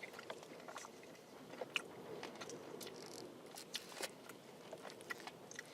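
A person chewing a mouthful of chips and gravy close to the microphone, with scattered small clicks and crackles.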